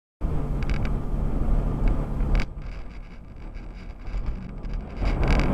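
Car engine and road noise with a low steady hum, starting abruptly after silence. It drops quieter about halfway through and grows louder again near the end.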